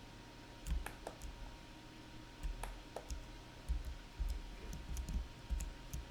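Computer mouse and keyboard clicks, irregular and scattered, several with a dull low knock that carries through the desk to the microphone.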